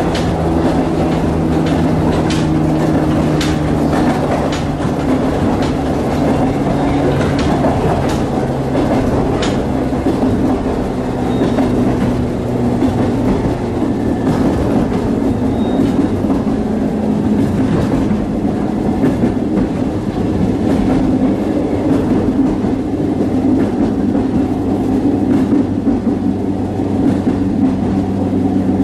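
Cabin noise inside a JR West 105 series electric train running between stations: a steady rumble of wheels on rail with a level hum. Sharp clickety-clack of wheels over rail joints comes now and then, most often in the first ten seconds or so.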